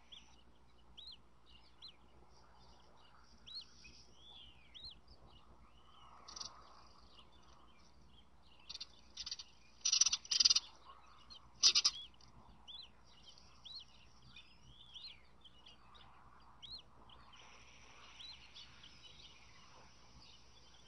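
Wild birds calling: short, high chirps that rise and fall repeat every second or so, and a louder run of harsh bird calls comes in about nine to twelve seconds in.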